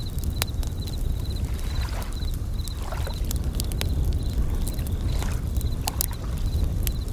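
Bell crickets (suzumushi) chirping in short ringing trills at one high pitch, about two a second, over a crackling wood fire with scattered sharp pops and a low rumble of waves washing in and out.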